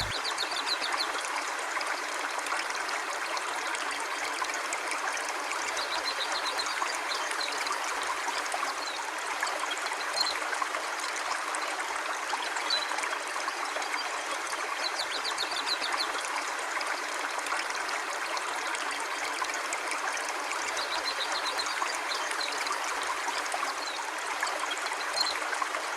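A river or stream flowing with a steady, even rush of water. Faint high chirps sound briefly every few seconds.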